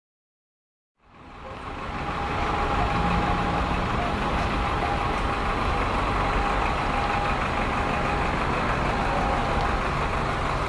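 Steady motor-vehicle running noise that fades in about a second in and then holds even, with a faint steady tone through it.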